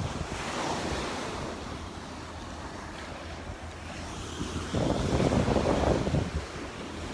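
Waves breaking on a sandy beach with wind buffeting the microphone, swelling to a louder rush about five seconds in.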